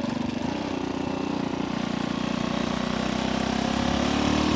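1964 Honda C200's small single-cylinder four-stroke engine running as the bike is ridden, its revs and loudness rising toward the end as it accelerates.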